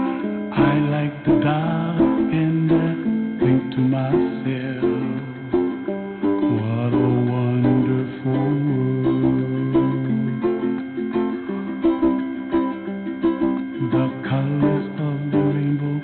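Gentle strummed ukulele music, with a voice softly singing a wordless melody over it.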